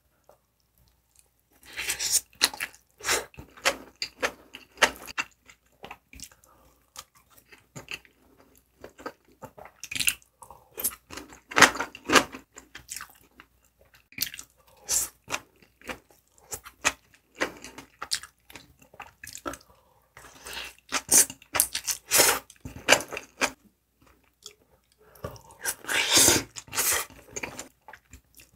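Close-miked eating: wet chewing and biting of mouthfuls of red fried rice wrapped in roasted seaweed, and of noodles, in irregular clusters of sharp smacks and crunches with quieter pauses between mouthfuls.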